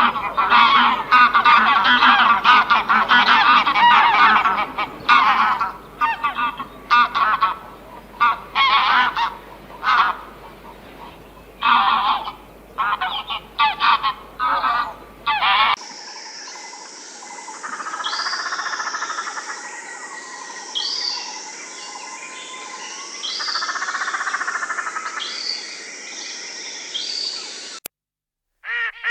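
A flock of geese honking, with many short calls overlapping, for about the first half. It then cuts to a quieter recording of other repeated animal calls.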